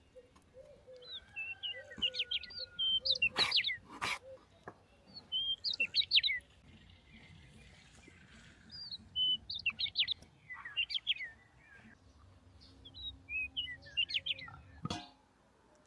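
Small songbirds singing short, quick twittering phrases that repeat every couple of seconds. A few sharp knocks sound among them, two close together a few seconds in and one near the end.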